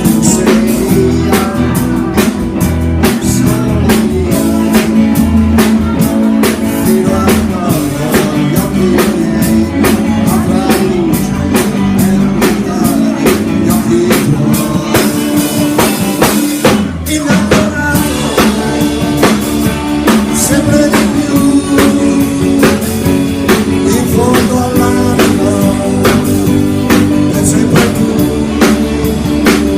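A band playing with drum kit, electric guitar and bass, the drums keeping a steady beat and a voice singing over parts of it. The band drops out briefly about halfway through, then comes back in.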